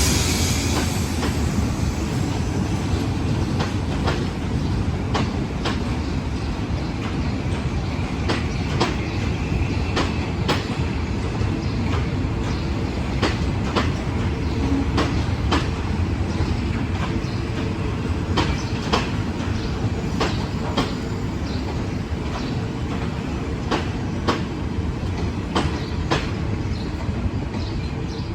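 Train rolling steadily past, a low rumble with irregular clicks of wheels going over rail joints.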